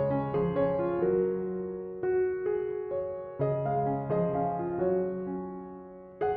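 Soft background piano music: slow chords and melody notes struck and left to ring.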